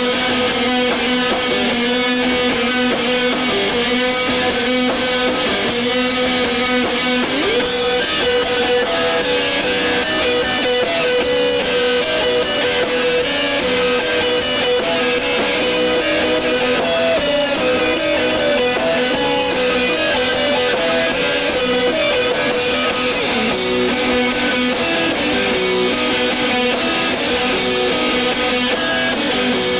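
A post-hardcore band playing live with no vocals: electric guitars ring and strum over a held droning note, and drums and cymbals keep a steady beat.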